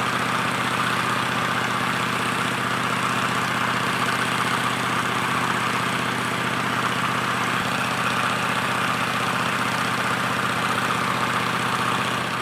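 A heavy engine running steadily at an even speed, with no revving; it cuts off abruptly at the end.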